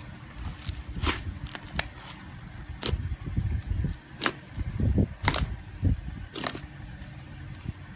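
Butter slime being squished and stretched by hand: sharp, sticky clicks and pops every second or so over low, soft squishing and handling noise.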